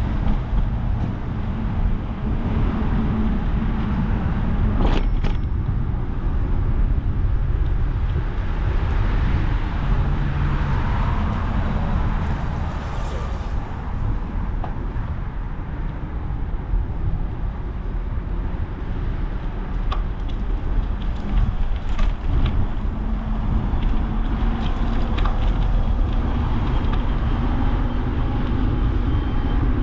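Road traffic noise heard while cycling along city streets: a continuous low rumble of passing cars, with a few faint clicks.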